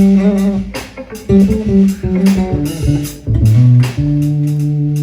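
Band music: guitar and bass guitar playing, with sharp percussive hits. The bass moves to long held low notes about four seconds in.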